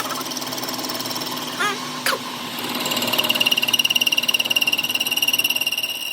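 A workshop machine running steadily with a fast fluttering rattle and a few short squeaks. From about three seconds in, a high-pitched whine grows louder over it.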